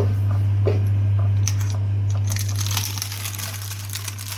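Plastic film lid crinkling as it is peeled off a hot ready-meal tray, starting a little past two seconds in, with a few light clinks before it. A steady low hum runs underneath and drops a little in level near three seconds in.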